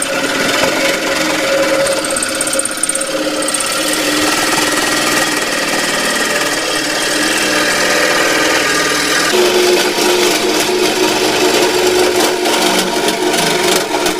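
Power saw running under load and cutting, its blade's teeth burning off. A steady, loud buzz that shifts pitch about nine seconds in.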